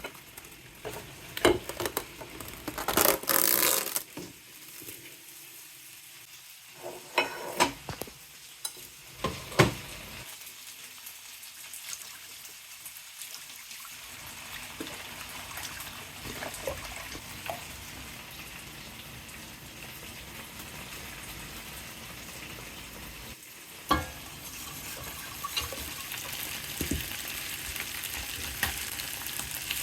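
Food sizzling in a frying pan, with a few sharp knocks and clatters of cookware in the first ten seconds, then a steady sizzle that grows brighter toward the end.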